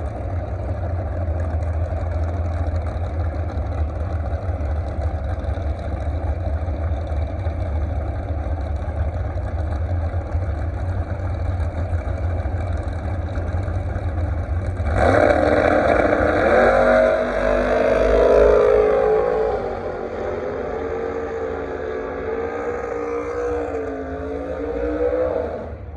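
Drag racing car at the strip: a steady low engine rumble, then about fifteen seconds in a sudden full-throttle launch whose pitch falls as the car pulls away down the track. A quieter wavering engine note follows until the sound cuts off.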